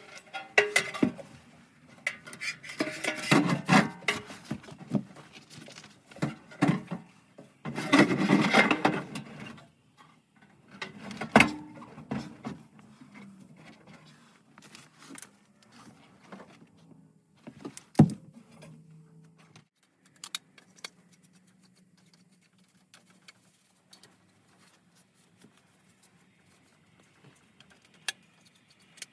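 Handling noise from work inside a gas furnace cabinet: bursts of rustling and metal clatter, a sharp knock about 11 seconds in and another about 18 seconds in, then a faint low hum with a few light ticks.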